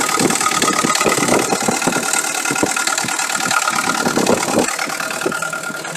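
UMZ-417 four-cylinder petrol engine idling with a rapid, diesel-like knock from under the front timing cover, which the owner puts down to a failed camshaft timing gear.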